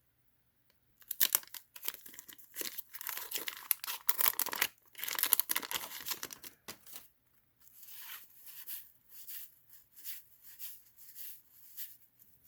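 A wax-paper trading-card pack wrapper being torn open and crinkled by hand: a dense run of tearing and crackling for several seconds, then lighter, separate crinkles.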